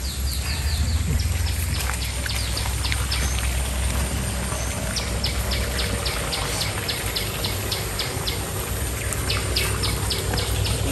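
A bird calling a rapid series of short, high chirps, about four a second, in three runs, over a steady low rumble.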